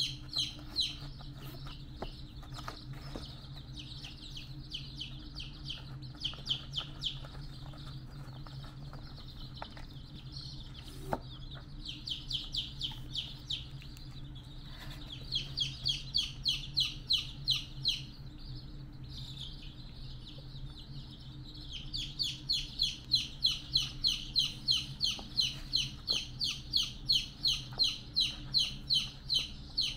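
A bird chirping in quick runs of short, high chirps, about three or four a second, over a steady low hum.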